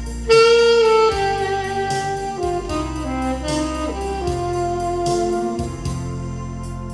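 Alto saxophone playing a slow melody over a backing track: held notes stepping downward, ending on a long sustained note.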